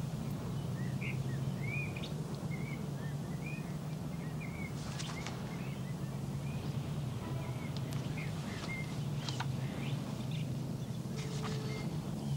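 Small birds chirping, many short repeated chirps, busiest in the first half, over a steady low background rumble, with a few soft clicks later on.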